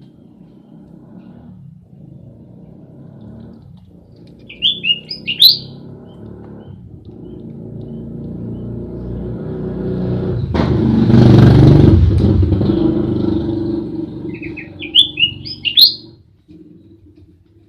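A motor vehicle passes close by: its engine builds up to its loudest about eleven seconds in, then fades away. Two short bursts of bird chirping come about five seconds in and again near the end.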